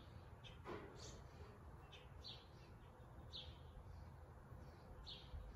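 Near silence with a low room hum and a few faint, short, high-pitched bird chirps at irregular intervals.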